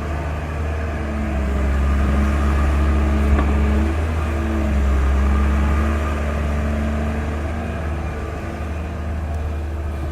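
Heavy diesel engine of the recovery equipment running steadily under load, its pitch shifting slightly about four seconds in, with a single sharp knock about three seconds in.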